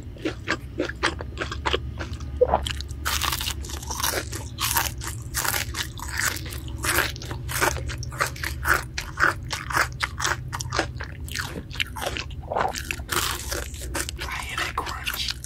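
Close-miked ASMR eating of crispy fried chicken: the batter crunches sharply and irregularly as it is bitten and chewed, many crunches in quick succession, one especially loud about two and a half seconds in, over a low steady hum.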